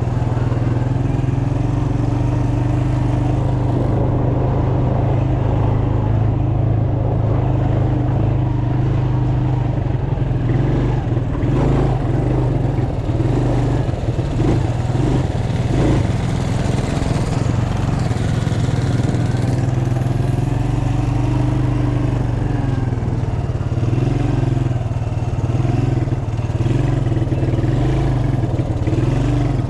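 Small engine running steadily, its low hum holding even while a higher tone wavers up and down a little.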